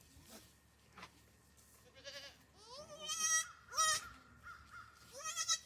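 Goats bleating: four wavering calls that rise in pitch, the second and third the loudest.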